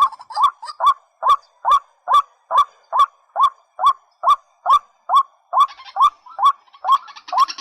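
A rail repeating one short hooked call, about two and a half notes a second in a steady, even series, each note bending up and then down. Near the end a second sound made of several steady tones joins in.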